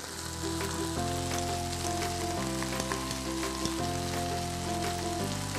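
Chicken, mushrooms, onions and carrots sizzling steadily in a frying pan, a fine crackle under background music whose held chords change about every second and a half.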